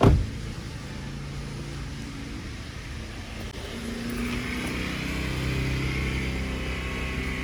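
A sharp thump at the very start, then a car engine running steadily, growing louder about four seconds in.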